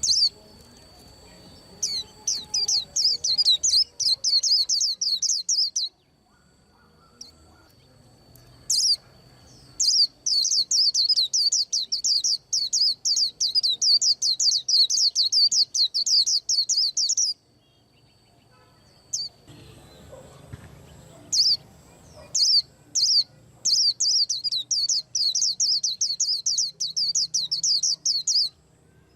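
A pet white-eye singing: rapid runs of high, quick chirping notes in three long bouts, with short pauses between them.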